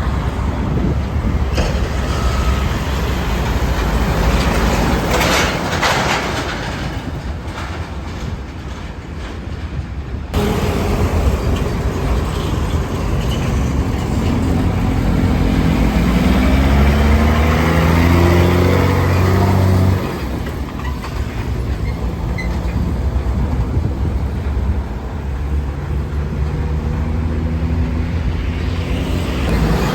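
Road traffic. In the middle a heavy vehicle's engine climbs in pitch and grows louder as it drives past, then the sound cuts off abruptly.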